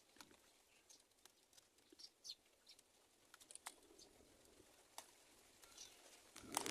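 Near silence broken by faint, short, high bird chirps, a few of them sliding downward, and scattered light clicks. A brief louder rustle comes near the end.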